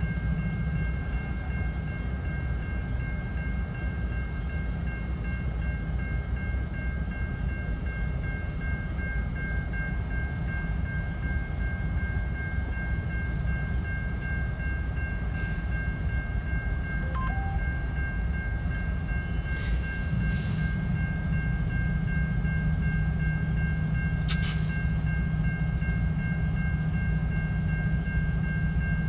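Freight train of tank cars rolling through a grade crossing: a steady low rumble of the cars passing, with steady high-pitched ringing from the crossing signal over it. A few brief clicks come in the second half.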